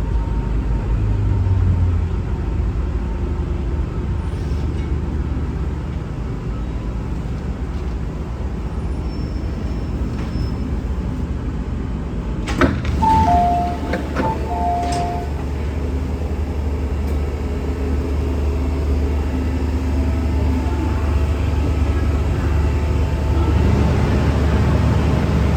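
MTR M-Train running on the Tsuen Wan Line, a steady low rumble of wheels and running gear. About halfway through there is a sharp click, then a short electronic chime of two alternating notes, high and lower, heard twice.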